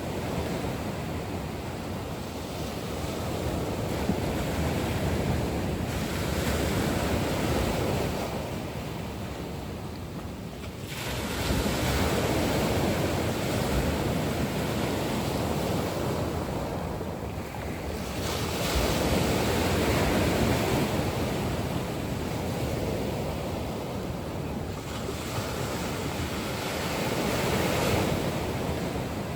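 Sea waves surging and washing in. The noise swells and eases about four times, one surge every six to eight seconds.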